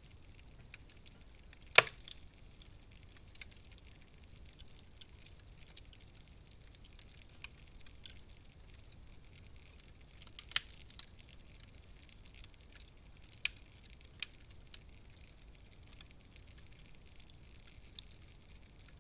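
Wood fire crackling in a fireplace: scattered sharp pops and snaps over a faint hiss, the loudest pop about two seconds in.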